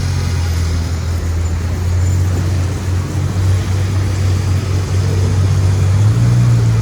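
Steady low hum of a motor vehicle's engine over road noise, the hum shifting a little higher about six seconds in.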